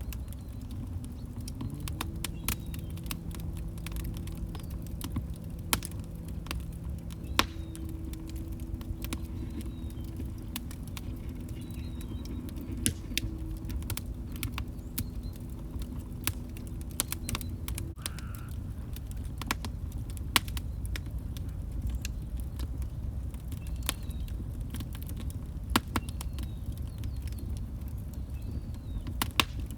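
Log fire crackling: a steady low rumble of flames with frequent sharp pops and snaps from the burning wood. A faint low hum sits under it for the first half, stopping about eighteen seconds in.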